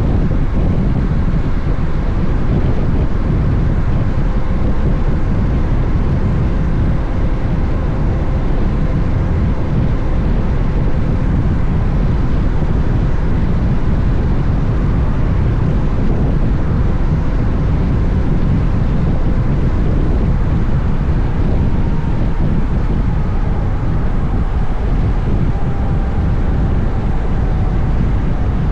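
Steady, heavy wind rush on the microphone of a Honda X-ADV motorcycle on the move, with the 745 cc parallel-twin engine and road noise running under it.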